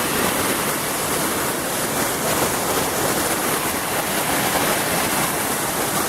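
Steady rush of small waterfalls and a creek flowing over rocks.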